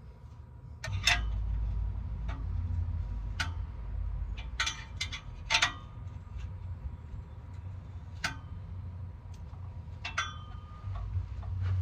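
Irregular sharp clicks and clinks of tools or metal parts being handled, a dozen or so at uneven intervals, over a low rumble.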